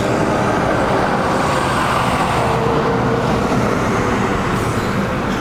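Steady road traffic noise, a continuous vehicle rumble with no single event standing out.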